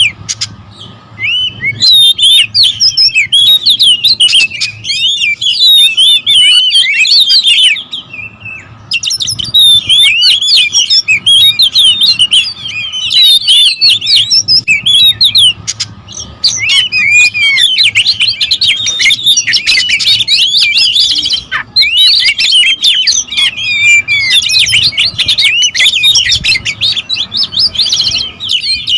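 Several oriental magpie-robins singing and calling at once in a dense, fast stream of whistles and chattering phrases. This is a territorial squabble, the 'kacer ribut' clamour used as a lure to rouse other magpie-robins. There are short lulls about a second in and again about eight seconds in.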